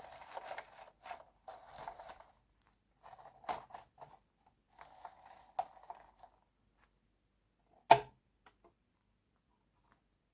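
Small plastic toy kitchen pieces and their packaging being handled: bursts of rustling and scraping with light clicks, then one sharp plastic click about eight seconds in.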